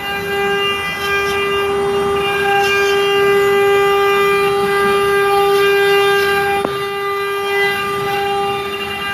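CNC stone-carving router's spindle running with a steady, high-pitched whine. A single sharp click comes about two-thirds of the way through.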